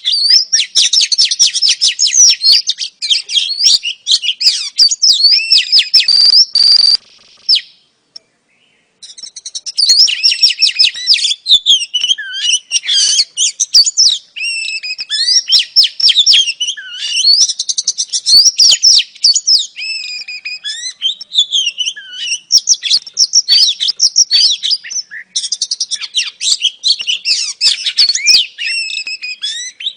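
Female Oriental magpie-robin (kacer) call recording: a dense, fast stream of varied high chirps and whistles. It stops for about a second and a half around eight seconds in, then goes on.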